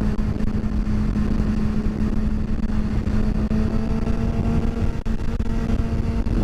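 Motorcycle engine running at a steady speed under heavy wind and road noise. About three seconds in, fainter higher engine tones come in alongside it.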